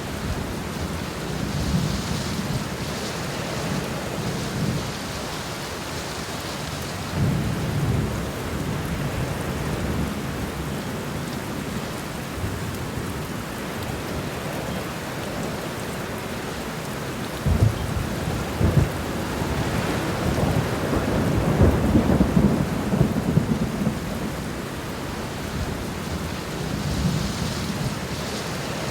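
Steady rain falling, with low thunder rumbles swelling and fading several times; the longest roll comes about two-thirds of the way through.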